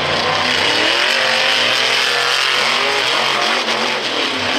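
Monster truck engine revving hard, its pitch rising and falling repeatedly as the throttle is worked.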